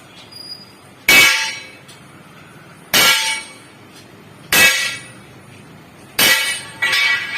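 Hammer striking the steel of a truck leaf spring: five hard blows about a second and a half apart, the last two close together, each ringing on briefly.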